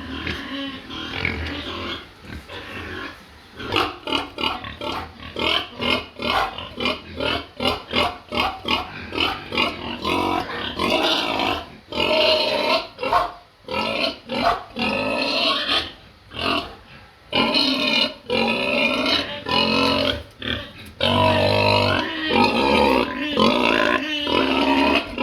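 Pigs grunting in quick, short calls, then breaking into longer, drawn-out squeals, the noise of hungry pigs.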